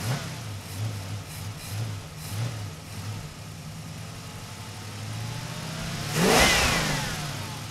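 A car engine runs with a pulsing low note for the first few seconds. About six seconds in, a louder car sound sweeps by with a falling pitch, the loudest moment, then fades off.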